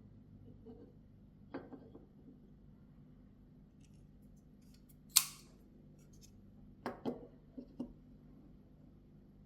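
Flipper knife with a titanium liner lock being worked by hand. A few soft clicks come first, then one loud, sharp metallic snap about five seconds in as the blade flips open and locks, and a cluster of smaller clicks follows near the end as it is handled and closed.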